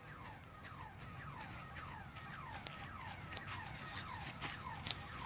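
A small bird peeping over and over, each call a short falling note, about three a second, with light clicks among them.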